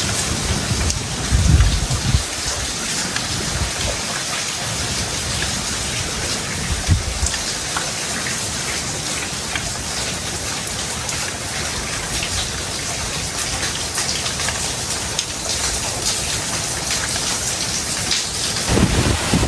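Heavy tropical rain pouring steadily, with a few brief low rumbles about a second and a half in, around seven seconds in and near the end.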